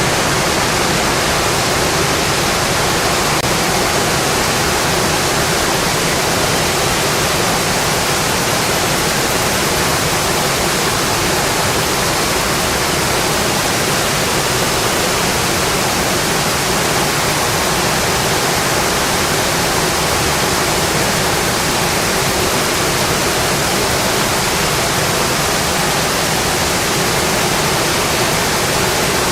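Rain falling steadily on a metal roof, an even, unbroken hiss.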